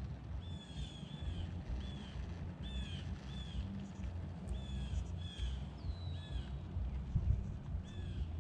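Birds calling over and over: a steady run of short, arched calls, about two a second, over a low rumble.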